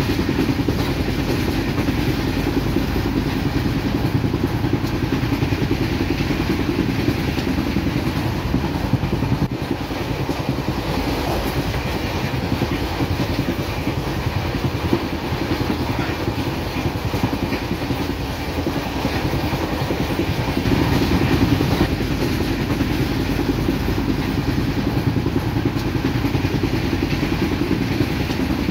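Steady low rumble of a moving train running on the rails, heard from on board, swelling a little about two-thirds of the way in.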